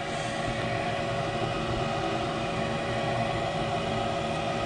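Steady hum of a gas furnace's fan motor running, a few held tones over an even rush of air.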